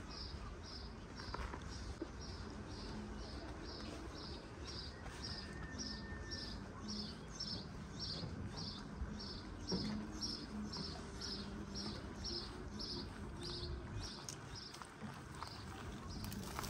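A small bird chirping over and over in a steady rhythm, about two short high chirps a second, stopping shortly before the end.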